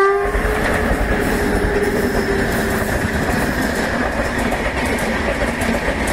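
Express passenger train's coaches passing close at speed: a steady heavy rumble with clickety-clack of wheels over the rail joints. The locomotive's horn cuts off just as it starts.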